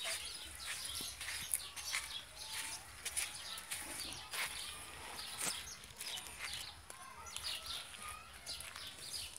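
Small birds chirping, many short high chirps repeating throughout over a faint outdoor background, with one sharp click about a second and a half in.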